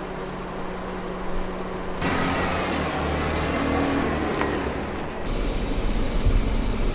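Jeep Wrangler engine running as the vehicle drives on a paved hill road, a low rumble that comes in suddenly about two seconds in. About five seconds in it changes to the deeper, heavier rumble of riding inside the vehicle.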